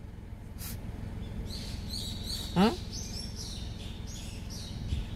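Small birds chirping in a quick run of short high calls for about three seconds, over a steady low rumble. About halfway through, a short, loud sound sweeps steeply down in pitch.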